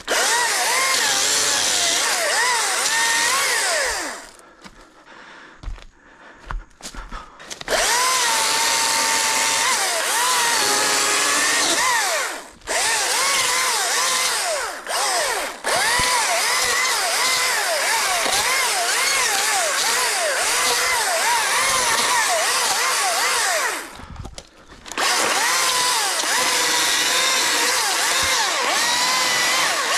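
ECHO DCS-2500T battery chainsaw cutting wood. Its electric motor whine runs in long bursts with short pauses between them, and its pitch dips and recovers over and over as the chain takes load.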